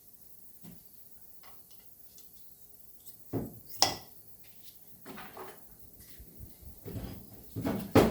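Valve being hand-lapped into its seat on a cylinder head: after a quiet start, a series of irregular scrapes and knocks, the sharpest about a second after they begin and again near the end.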